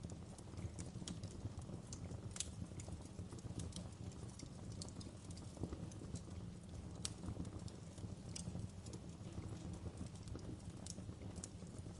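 Wood fire burning in a fireplace: a steady low rumble under frequent, irregular crackles and pops, a few sharper and louder than the rest.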